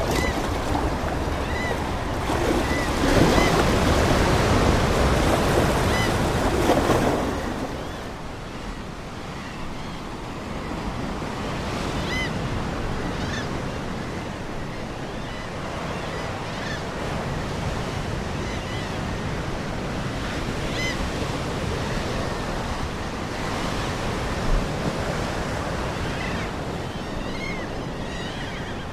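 Ocean waves washing on a shore: a loud surge for the first seven seconds or so that then eases to a softer, steady wash. Seagulls call briefly many times over the surf.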